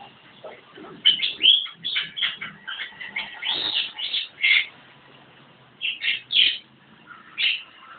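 Javan myna (jalak kebo) calling in a busy run of short, varied chattering and whistled notes, with a dense stretch early on and a few more calls after a brief pause.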